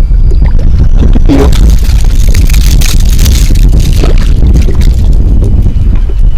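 Wind buffeting the microphone: a loud, irregular low rumble, with a louder rush of hiss about two to four seconds in.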